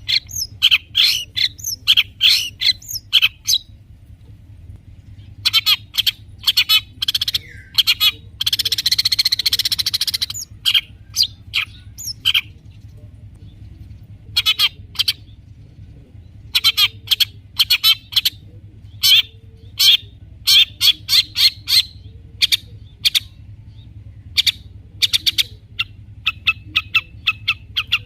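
Long-tailed shrike (cendet) singing in fast trains of sharp, high chattering notes, broken by short pauses, with a harsh rasping call lasting about two seconds about a third of the way in.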